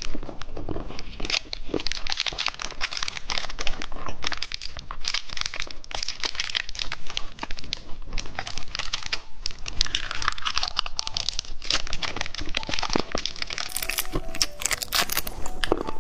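Plastic candy wrappers crinkling and tearing as they are handled and opened, a dense run of irregular crackles and rustles.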